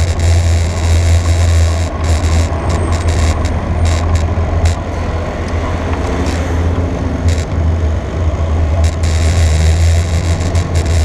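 A motor vehicle's engine running steadily, a constant low hum under rushing noise, with scattered short knocks.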